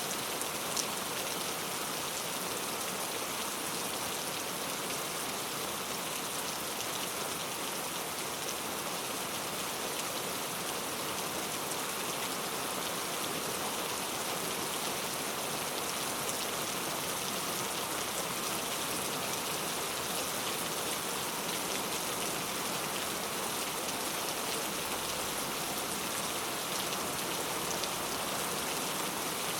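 Heavy rain falling steadily on mango leaves, a dense even patter of drops with one slightly sharper drop tick about a second in.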